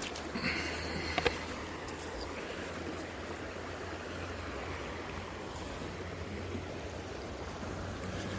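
Stream water running steadily, with a low steady hum beneath it and a couple of sharp clicks about a second in.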